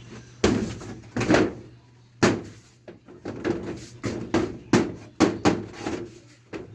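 A series of about a dozen sharp knocks from carpentry work on wood, irregularly spaced, the first few over a second apart and then coming faster, about two a second, in the second half.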